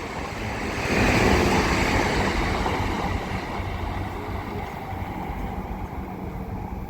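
Chiltern Railways Class 165 diesel multiple unit passing through the station without stopping: the rumble of its wheels and diesel engines swells about a second in, then slowly fades as it goes by.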